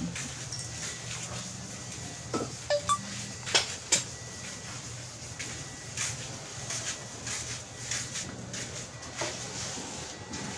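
Irregular metallic clinks and knocks, like hand tools and metal parts being handled, with a cluster of sharper knocks and a brief squeak a few seconds in, over a steady low hum.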